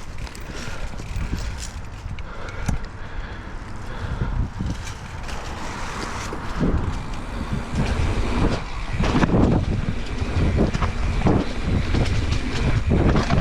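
Wind rushing over the microphone and tyres rolling on a dirt trail as a bicycle rides a jump line, with frequent knocks and rattles from bumps. It gets louder and rougher about halfway through as speed builds.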